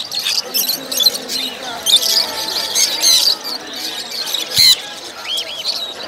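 Many caged birds chirping and squawking at once in a busy chorus of short high calls. A brief, sharp, loud sound cuts through about two-thirds of the way in, and two arched chirps follow near the end.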